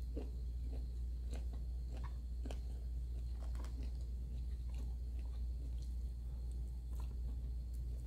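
Close-miked chewing with scattered soft mouth clicks, while rice and shrimp are eaten by hand, over a steady low hum.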